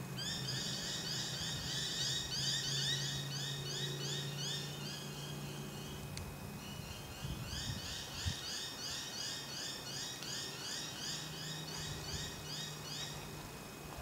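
A bird calling: two long runs of quick, repeated notes at about five a second, broken by a short pause about six seconds in, over a faint low hum.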